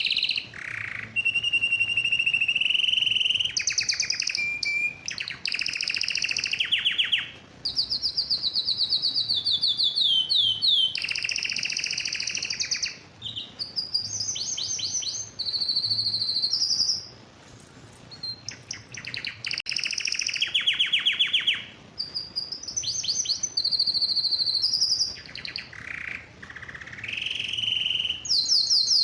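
Male canary singing its breeding-season courtship song: fast trills of rapidly repeated high notes and rolling phrases, in runs of a few seconds with short pauses and one longer pause just past the middle.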